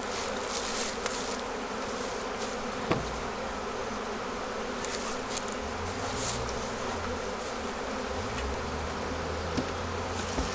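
Swarm of honeybees buzzing around open hives, a steady hum. A single sharp click about three seconds in.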